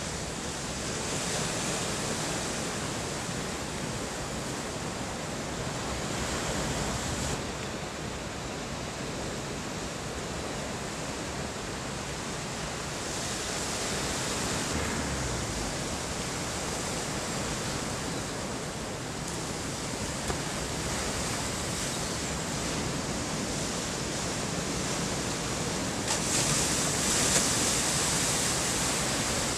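Heavy ocean surf breaking: a steady rushing of water that swells louder several times as waves come through, loudest near the end.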